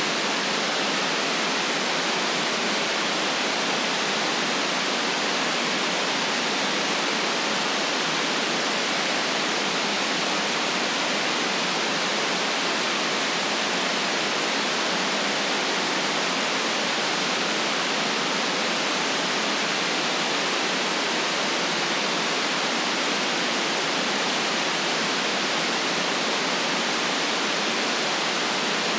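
Steady synthetic white noise for relaxation: an even hiss without pitch or rhythm, filtered to cut off the deepest bass and the highest treble.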